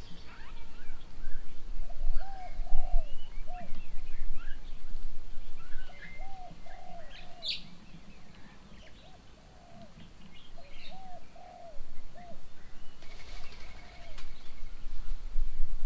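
Doves cooing in repeated groups of two or three short, arched notes, with smaller birds chirping and twittering at a higher pitch throughout.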